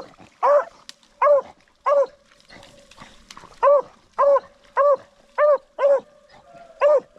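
A beagle barking about ten times, evenly spaced, with a pause of about a second and a half in the middle. It is giving tongue while running a rabbit track.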